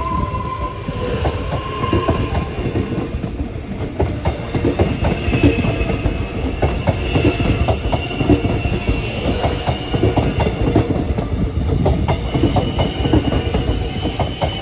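Melbourne Metro electric suburban train passing close by, its wheels rumbling and clicking over the rails in quick irregular knocks, with a steady high whine over the top.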